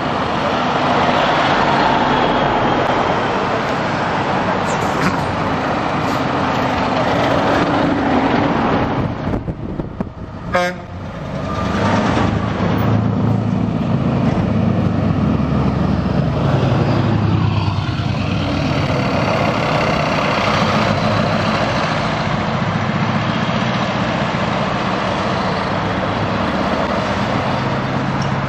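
Scania trucks running and driving past with steady engine and road noise. About ten seconds in the noise dips briefly and a short horn toot sounds.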